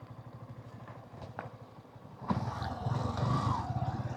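Motorcycle engine running with a steady, rapid low throb. About two seconds in, the engine sound grows louder and noisier.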